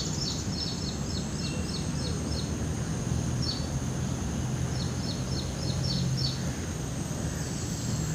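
A small bird calling runs of quick, high, falling chirps, about four a second, in two bursts with a lone note between them, over a steady low hum and background noise.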